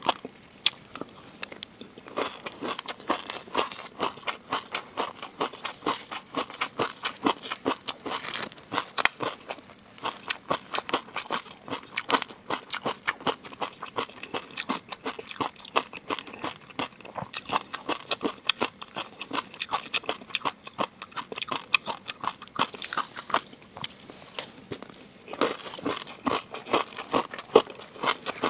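Close-miked eating sounds: a person biting and chewing seafood, with rapid wet crunching and clicking throughout.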